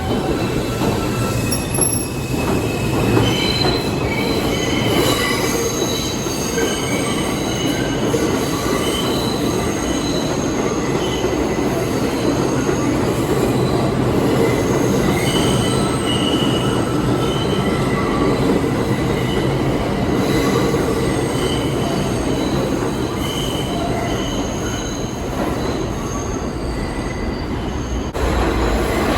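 New York City subway train running, its wheels squealing against the rails in shifting high-pitched tones over a steady rumble.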